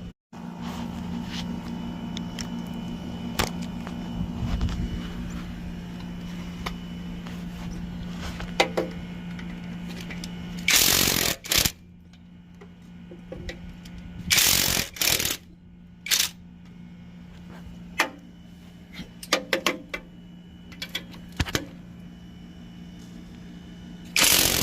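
Workshop noise: a steady machine hum with scattered clicks and knocks. Several short, loud bursts from a power tool come about halfway through, twice a few seconds later, and again at the very end.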